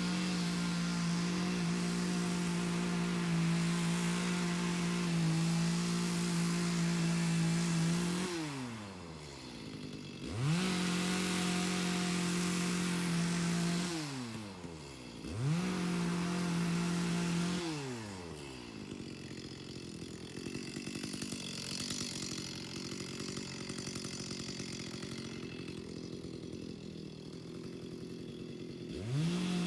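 Two-stroke chainsaw held at high engine speed, its throttle let off and opened again twice so the pitch drops and climbs back quickly, then let off a third time to a low idle for about ten seconds before revving up again near the end.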